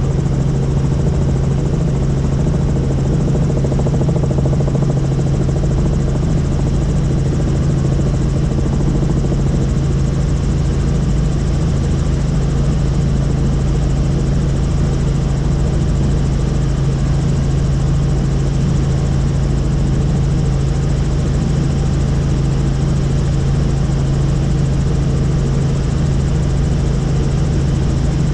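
Helicopter in steady flight: a loud, unchanging drone of engine and rotor, with a strong steady low hum.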